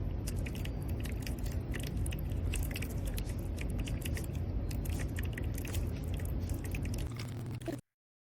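A cat crunching dry kibble: many small, irregular, crisp crunches over a steady low rumble, stopping abruptly near the end.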